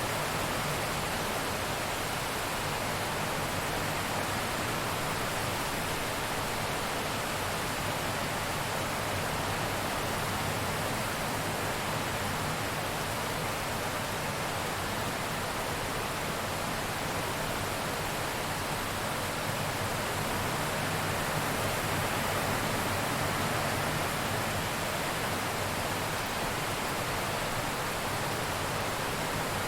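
Steady heavy rain, an even hiss that holds level throughout with no thunder.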